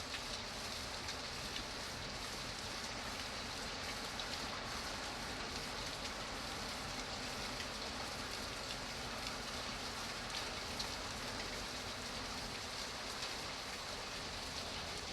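Steady rain falling, an even hiss of many drops with small patters and ticks of single drops striking a surface.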